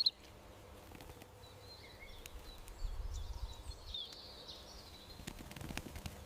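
Small garden birds chirping in short high calls, with a few sharp light clicks and a brief low rumble about three seconds in.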